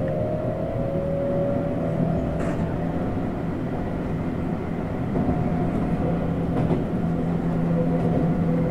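Tokyu 7700 series electric commuter train running, heard from the front cab: steady rumble of wheels on rail with the whine of its traction motors and inverter, a new higher tone joining about five seconds in. Wind noise through the crew cab is loud.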